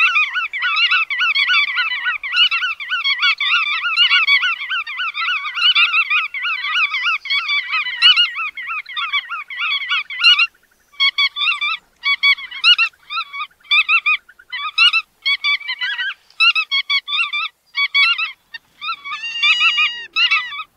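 Bar-tailed godwits calling: a fast, dense run of nasal, honk-like calls for about the first ten seconds, then shorter bursts of calls separated by brief gaps.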